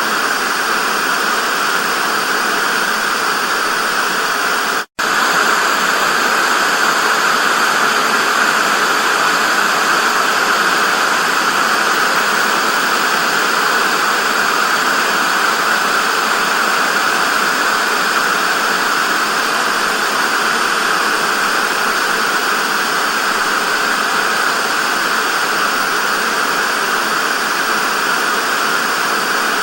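Analogue TV static: a steady, loud hiss with no tune or rhythm, strongest in the middle of the range. It cuts out for an instant about five seconds in.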